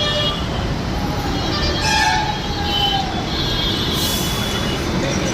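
Tata diesel bus engine and road noise running steadily, with a horn sounding about two seconds in and a short hiss about four seconds in.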